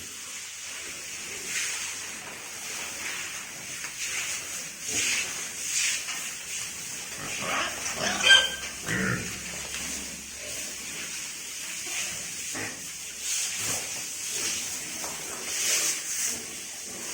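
Pigs grunting and squealing in their pen over a steady hiss of water spray, with one louder sharp call or knock about eight seconds in.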